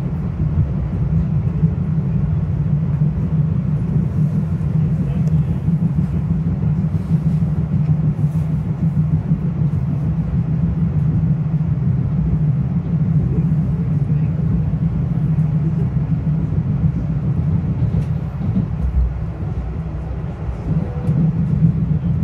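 Metro-North Hudson Line commuter train running between stations, heard from inside a passenger car: a steady low rumble of wheels on track, with faint ticks and rattles now and then.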